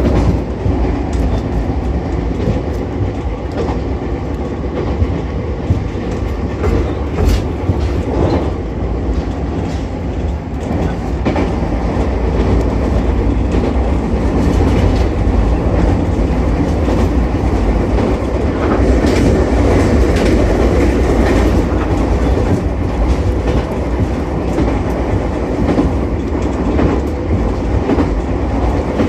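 Ichibata Electric Railway 7000-series electric railcar running along the line, heard from inside the car: a steady low rumble with scattered clicks of the wheels passing over rail joints, growing slightly louder about halfway through.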